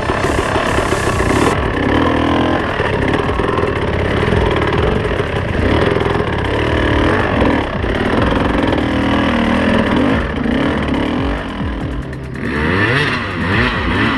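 Trail motorcycle engine running under load, revving up and down as it is ridden, its pitch rising and falling; it eases off about twelve seconds in, then revs in quick rises and falls again.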